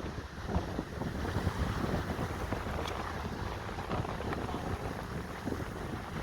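Wind buffeting the microphone in a fluctuating low rumble, with water rushing and splashing beneath it, as heard out on the water while windsurfing.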